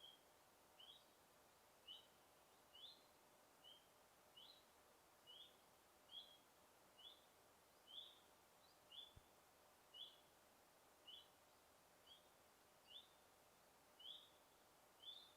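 Faint forest ambience with a single bird repeating a short, high chirp about once a second.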